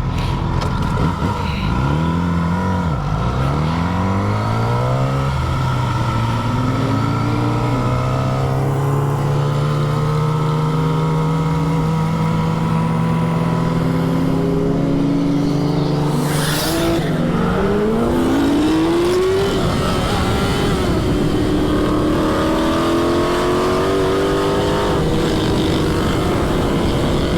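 Loud car engines revving and accelerating, several engine notes rising and falling over one another. A little past the middle one engine climbs steeply in pitch, with a brief rush of noise.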